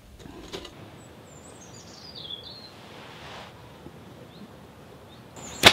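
Quiet outdoor ambience with a faint steady hiss and a single bird call: a wavy chirp that falls in pitch, about a second in. A single sharp snap comes near the end.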